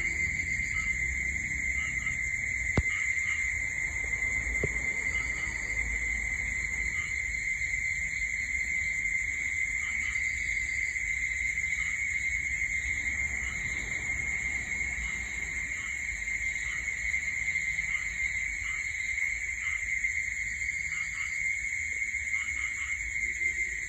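Steady night chorus of insects: a constant high-pitched trilling drone with a fainter, even higher band above it, and short chirps dotted through it. A sharp click about three seconds in, and a smaller one a couple of seconds later.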